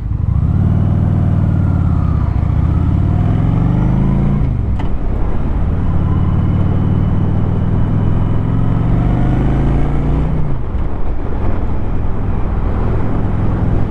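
Motorcycle engine accelerating through the gears: the revs climb, drop at a shift about four and a half seconds in, climb again and drop at a second shift about ten seconds in, then hold steady, with wind rush over it.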